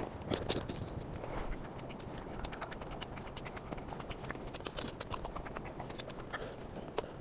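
Eating sounds sped up about five times: a dense, rapid run of clicks and wet smacks from chewing and mouth noises.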